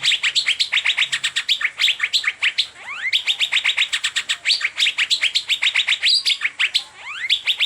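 Asian fairy-bluebird (cucak biru) singing a fast chattering 'teler' song: rapid repeated chirps, about ten a second, broken by a few rising whistled sweeps and a short pause about two and a half seconds in.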